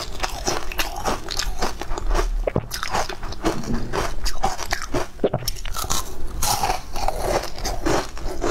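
Close-up eating sounds: a person biting and chewing crunchy food, a continuous series of crisp crunches.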